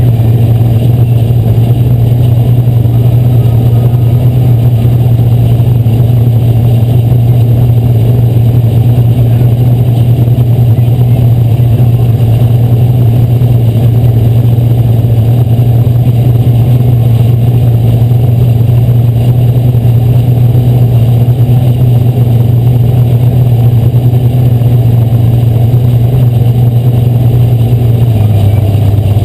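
Asphalt modified race car's engine running loud at a steady, held pitch, dipping slightly near the end.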